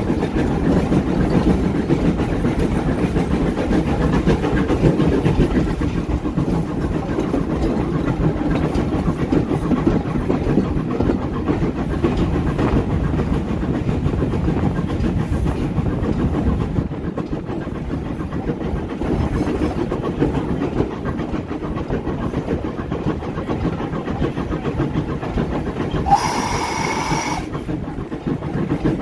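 Heritage passenger train running along the line, with steady wheel-on-rail rumble and clatter. Near the end a single high whistle sounds for about a second and a half.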